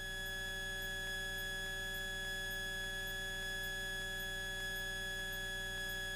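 Steady electronic whine of several fixed pitches in the Cessna 172's headset intercom audio, held unchanged, with a faint high tick about three times a second.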